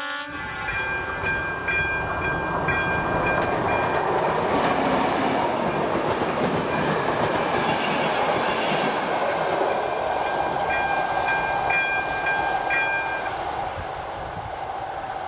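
A locomotive-hauled passenger train rolling over the level crossing, its wheels and coaches making a rushing clatter that builds about two seconds in and eases off near the end. The crossing's electronic bell (ZV-02) rings with regular strikes at the start and again near the end, stopping about two seconds before the end; a short horn note sounds right at the very start.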